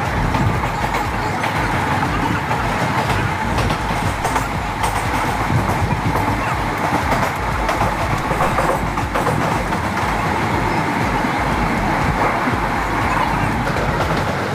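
Passenger train running at speed, heard from on board: a steady rumble of wheels on the track with scattered clicks.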